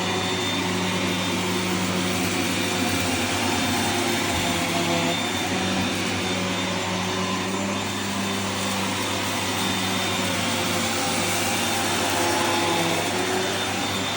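Vorwerk Kobold VK130 upright vacuum cleaner running steadily on carpet, a constant whooshing hum whose pitch shifts slightly up and down now and then.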